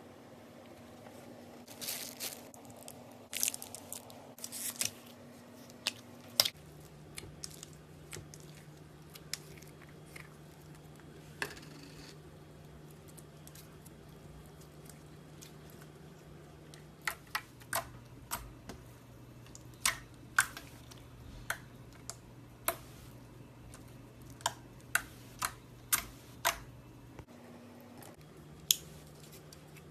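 Slime being squeezed and poked by hand, making many sharp, irregular clicks and pops of trapped air over a low background hum.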